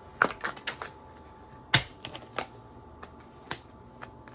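Tarot cards being handled: a series of sharp card snaps and flicks, several in quick succession in the first second, a louder single snap a little before the middle, and a few scattered ones after.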